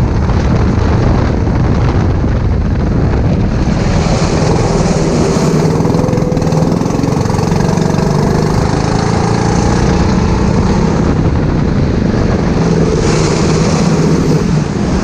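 Go-kart engine running under load through a race lap, its pitch rising and falling with the revs, over heavy low wind rumble on the onboard microphone.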